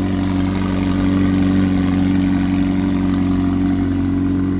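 McLaren 750S twin-turbo V8 idling fast and steady just after a cold start.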